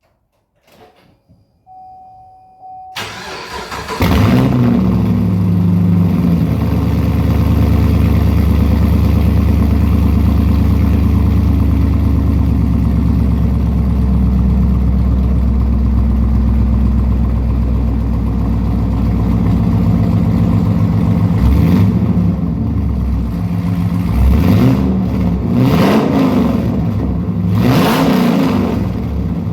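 2013 Chevrolet Camaro SS 6.2-litre V8, with long-tube headers, no catalytic converters or resonator and cheap Speedway Motors bullet mufflers, cold-started: after a short faint tone the starter cranks and the engine catches about four seconds in, then holds a steady fast idle. Near the end it is blipped several times, each rev rising and falling quickly.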